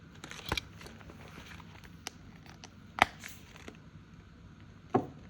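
Handling of a budget binder and its cash envelopes: a few sharp clicks and snaps, the loudest about three seconds in, with softer taps between.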